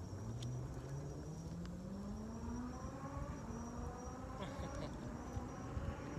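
A low, distant machine whine climbing slowly and steadily in pitch throughout, over a soft background hiss with a few faint ticks.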